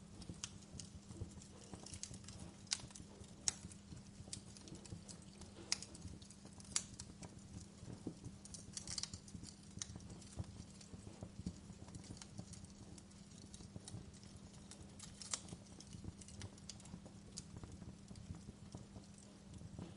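Wood fire crackling, with irregular sharp pops of burning logs over a steady low hum.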